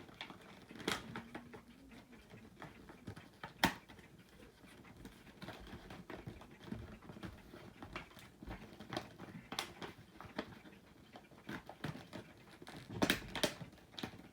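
Toy packaging being handled: scattered light clicks and taps, with one sharp tap about three and a half seconds in and a quick cluster of taps near the end.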